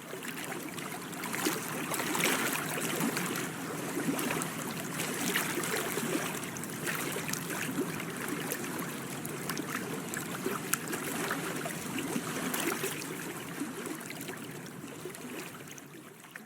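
Water lapping and splashing in a steady, noisy wash with many small splashy ticks, fading in at the start and out near the end.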